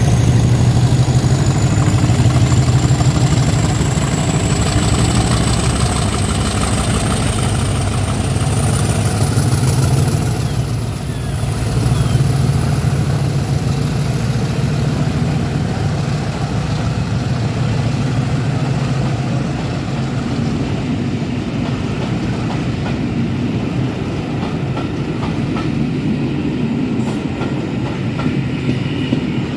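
Class 50 diesel-electric locomotives working under power: a deep engine drone with a high whistle rising in pitch over the first ten seconds. After that the drone eases and the train rolls on, its wheels clicking over the rail joints.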